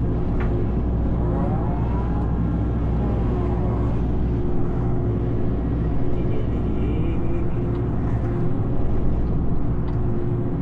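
Excavator's diesel engine running steadily, heard from inside the cab, with a whine that rises and then falls in pitch between about one and four seconds in.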